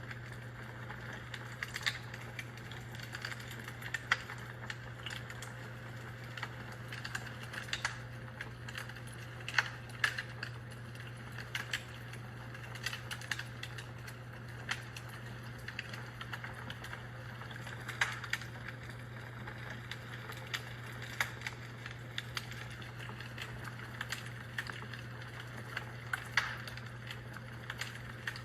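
Fire crackling: irregular sharp pops and snaps scattered throughout, over a steady low hum.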